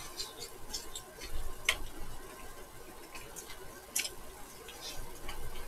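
Close-miked chewing with soft, wet mouth clicks and smacks at irregular intervals, from a bite of sausage and rice-cake skewer (sotteok-sotteok). A sharper click comes about four seconds in.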